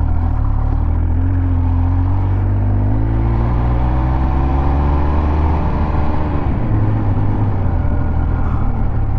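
Triumph Speed Triple 1200 RS inline-three engine under way, its pitch rising for a few seconds as the bike accelerates, then falling away about six seconds in, over a steady low rumble.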